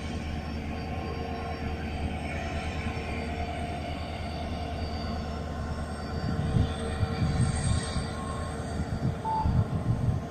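Distant goods train of covered wagons running along the line, a steady low rumble with faint steady tones above it. From about six seconds in, irregular louder low thumps come over the rumble.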